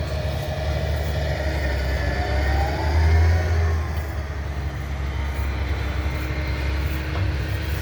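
Large diesel engine running with a steady deep rumble. It revs up about three seconds in, its pitch rising, then settles back.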